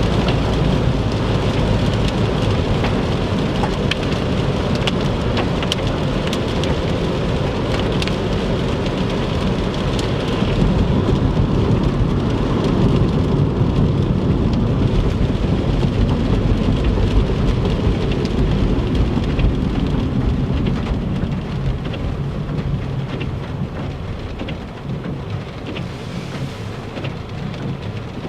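Rain pelting a moving car, with tyre noise on the wet road and a deep, steady rumble under many scattered drop ticks. The whole sound eases off gradually over the last several seconds.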